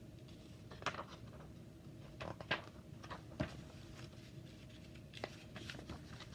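Picture-book pages being handled and turned: a few faint scattered taps and rustles over a steady low hum.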